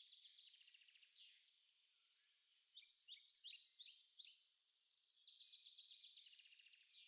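Faint songbird chirps and trills: a quick run of chirps about three seconds in, followed by a steady buzzy trill.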